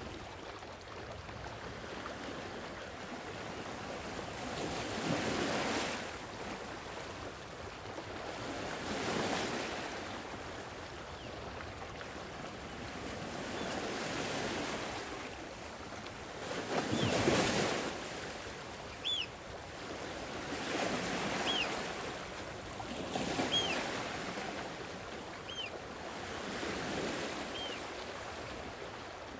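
Sea waves washing onto a shore in slow surges every few seconds, the largest a little past the middle. In the latter part a short high falling chirp repeats every second or two over the waves.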